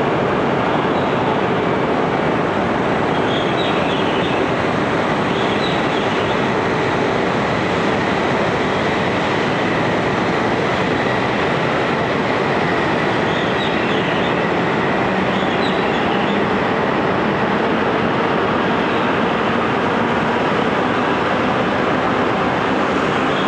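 Coupled E5-series and E6-series Shinkansen train running along the platform: a steady rush of running noise with a faint steady whine under it.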